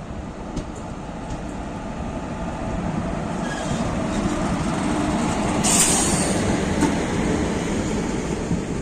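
Passenger train running on the rails, the rumble swelling over the middle, with a brief high hiss or squeal about six seconds in.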